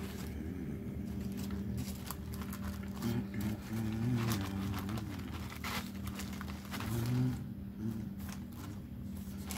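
Close-miked chewing and wet mouth sounds, many small clicks and smacks, with a few short low hums of the voice. A steady low hum runs underneath.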